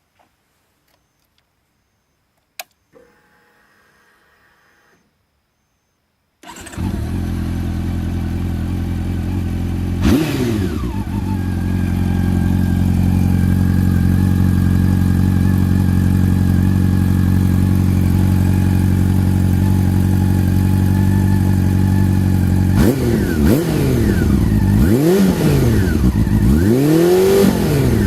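Honda CB400 Super Four (NC42) inline-four with a Striker slip-on muffler: after a click and a brief faint hum, the engine starts about six seconds in and idles steadily, with one short blip of the throttle a few seconds later. Near the end it is revved several times, the pitch sweeping up and falling back each time.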